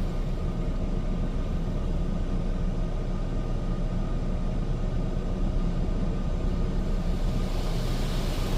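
Steady low rumble of an automatic car wash's rinse cycle heard from inside the car's cabin, with a hiss building near the end.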